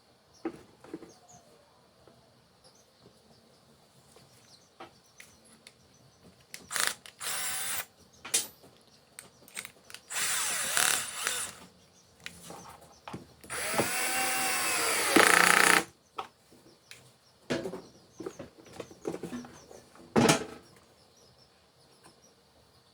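Handheld power drill run in three short bursts, its pitch rising and falling as it speeds up and slows, with clicks and knocks from handling the tool and work between bursts.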